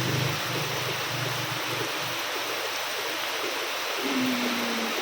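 Heavy rain falling steadily, an even hiss. A low hum fades out in the first couple of seconds.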